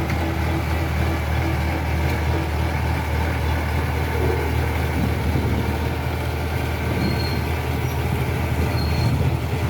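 Kubota DC-105X combine harvester's diesel engine running steadily at an even pitch.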